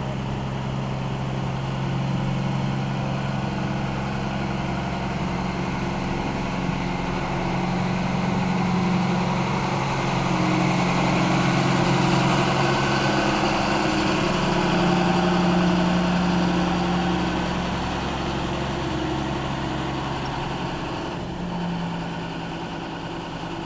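Railway tractor's engine running steadily at a low, even speed, growing somewhat louder in the middle and easing off briefly near the end.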